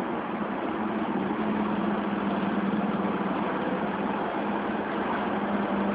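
Car engine running in slow traffic, heard from inside the car: a steady hum under an even rush of engine and traffic noise.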